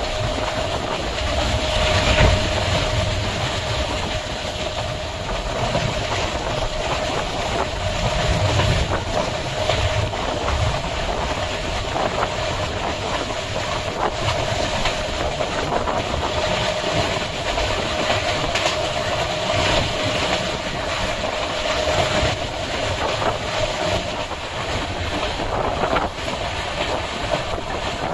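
Diesel-hauled express train running on the track, heard from aboard the coaches: a steady rumble and hiss with wheels clacking over rail joints. A steady whining tone runs through most of it and fades near the end.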